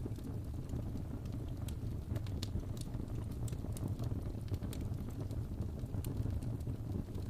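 Wood fire burning in a fireplace: a steady low rumble with irregular crackles and pops scattered through it.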